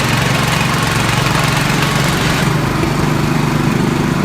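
Small engine of a tracked ridging tiller running steadily. About two and a half seconds in, the higher hiss thins out while the engine note carries on.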